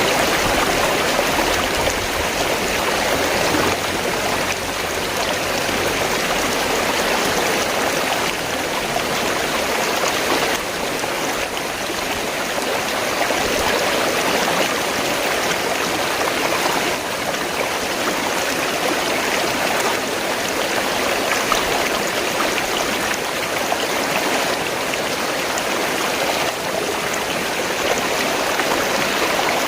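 Flowing river water, a steady rushing and babbling that does not change.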